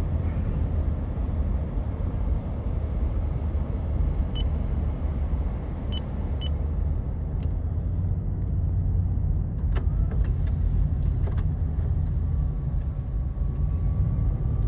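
A car driving, with a steady low rumble of road and engine noise and a few faint short ticks.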